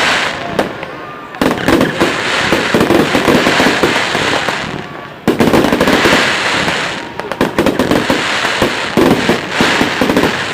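Fireworks display: dense rapid bangs and crackling from shells bursting, loud throughout, with sharp surges of fresh bursts about a second and a half in and again about five seconds in.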